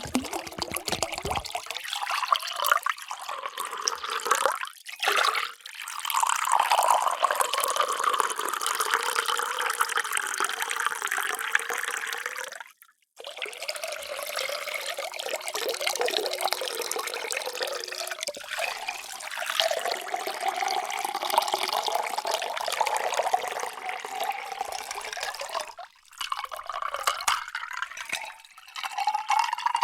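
Water poured in a steady stream into a vessel, its resonant tone rising slowly as the vessel fills. There are three separate pours, each cut off abruptly, about a third and again about four-fifths of the way through.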